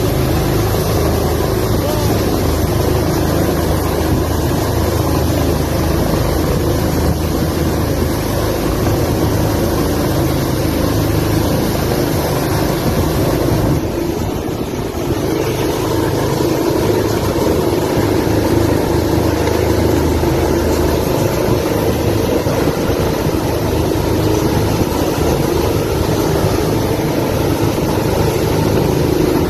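Steady engine drone, dipping briefly about halfway through.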